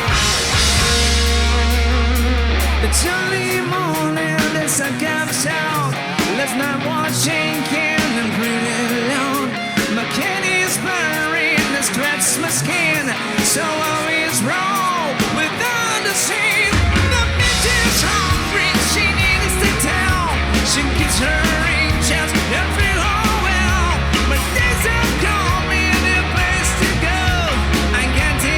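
Live rock band playing loud, with a lead electric guitar bending notes over drums and rhythm guitar. The deep bass drops out a few seconds in and comes back a little past halfway.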